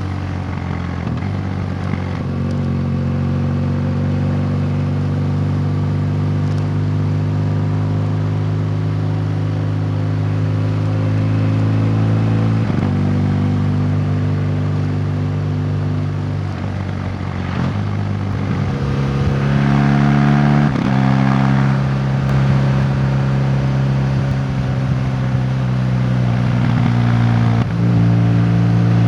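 A road vehicle's engine running steadily under way, heard on board. Its note breaks and shifts pitch several times through the stretch, as it changes gear.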